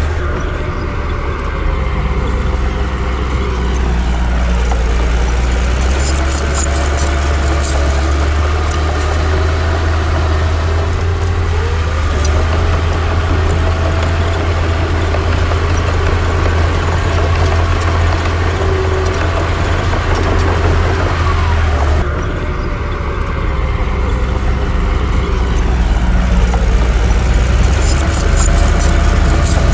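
Heavy diesel engine of a Komatsu D60 bulldozer running steadily under load, its pitch rising and falling as it works, with scattered light clanks.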